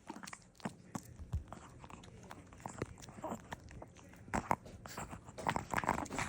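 A dog chewing and biting on a dried turkey chew, with irregular crunches and clicks of teeth that come faster and louder in the second half.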